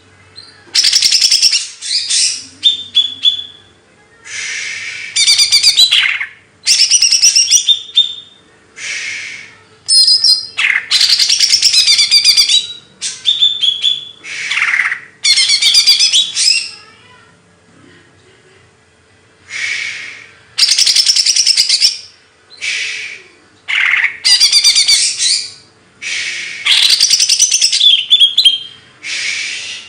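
A songbird singing loud, rapid, warbling phrases of one to two seconds each, high-pitched and full of trills, with short pauses between them, over and over. A faint steady hum runs underneath.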